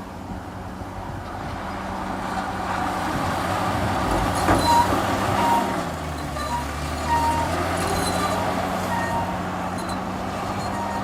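Heavy diesel construction machinery running steadily; its engine note dips about six seconds in, as under load. A sharp clank comes about four and a half seconds in, and short high squeaks sound now and then after it.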